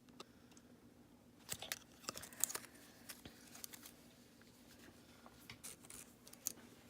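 Faint rustling and crinkling of handled toy packaging and a tag, in two short spells of small clicks and crackles.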